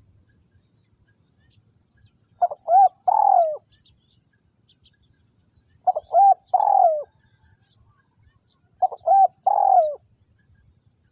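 Spotted dove, a trapper's caged decoy bird, calling three times. Each call is two short coos followed by a longer, falling coo.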